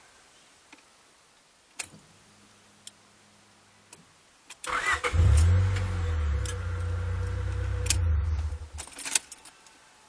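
Fifth-generation Honda Prelude 2.0-litre engine being started: a click and a faint low hum for about two seconds, then the starter cranks briefly and the engine catches at once. It runs steadily for about four seconds, then is switched off, followed by a few clicks.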